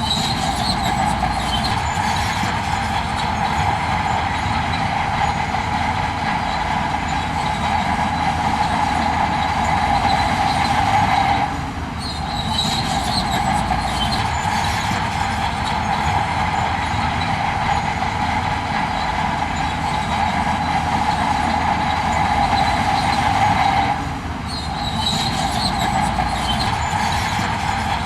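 Heavy earthmoving machinery working: a diesel engine runs under load with a steady high whine that breaks off briefly about every twelve seconds, each break followed by a few seconds of metallic clanking.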